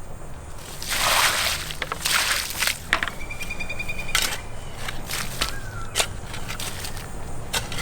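Water being poured onto loose soil around a transplanted bamboo root plug, in two short splashing pours with scattered clicks. A short high trill sounds about three seconds in.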